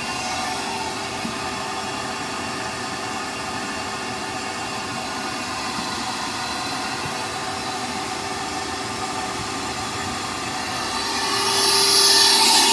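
Shop vac running steadily with a constant motor hum, drawing brake fluid and air out through the caliper's bleeder valve. About 11 seconds in it gets louder, with a stronger hiss.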